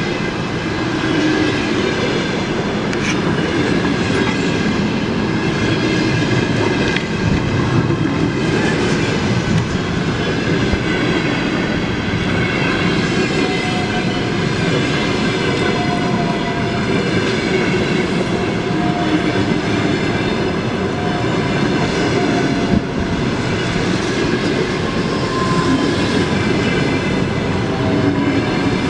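Russian passenger coaches rolling past at speed: a loud, steady rumble and clatter of wheels on the rails, with occasional clacks over rail joints and faint high tones that come and go.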